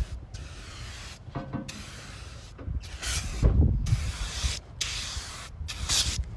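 Rust-Oleum Turbo Can aerosol spray paint hissing in a run of short passes, each about a second long with brief stops between, over a low rumble.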